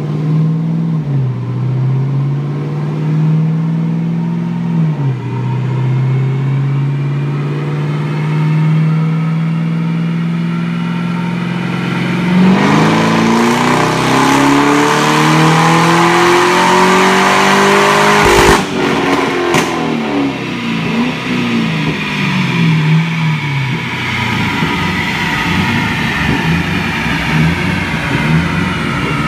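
2012 Cadillac CTS-V's supercharged 6.2-litre V8 through straight pipes on a chassis dyno: it runs steadily for about twelve seconds, then climbs in pitch under full throttle for about six seconds. It breaks off sharply at the lift, then runs down in pitch with a rough, crackly burble.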